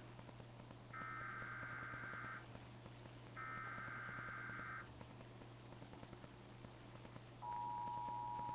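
Emergency Alert System warning tones: two more bursts of the screeching digital header data, each about a second and a half long and a second apart. After a pause, the steady two-tone attention signal comes in near the end, the signal that precedes the spoken severe thunderstorm watch message.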